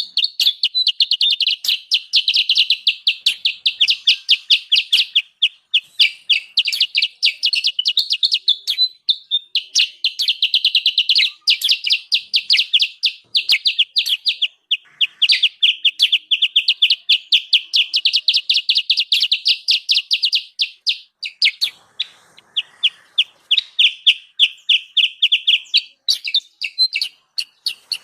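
Recorded kutilang sutra, a small songbird, in its noisy chattering call used as a trapping lure. A fast run of short, high chips, many each second, is broken only by a couple of brief pauses.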